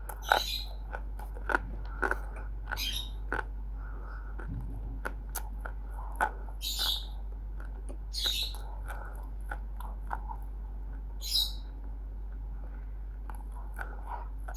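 Roasted multani mitti (fuller's earth clay) being bitten and chewed close to the microphone: sharp crunches and clicks every second or two.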